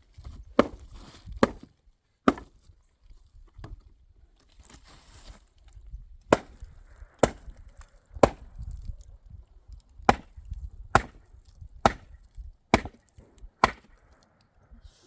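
Wood being chopped by hand: eleven sharp blows, three in the first couple of seconds, then after a pause a steady run of about one blow a second.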